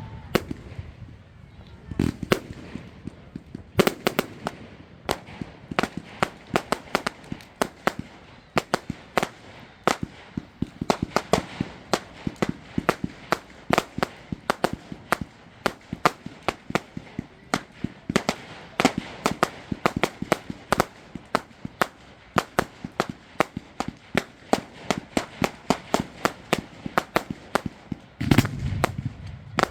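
Fireworks display: a fast, continuous barrage of sharp crackling bangs, several a second, with a few deeper booms, the heaviest near the end.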